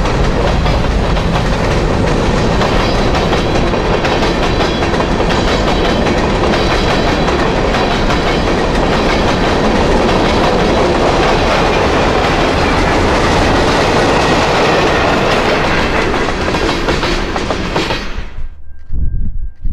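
Freight train cars rolling past at close range: a loud, steady rumble of steel wheels on the rails. It cuts off abruptly about 18 seconds in.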